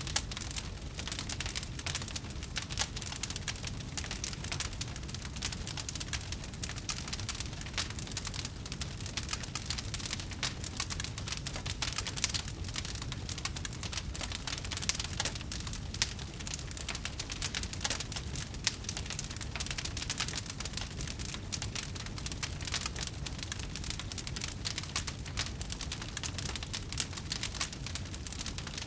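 Campfire crackling: a dense, steady stream of small pops and snaps over a low rumble.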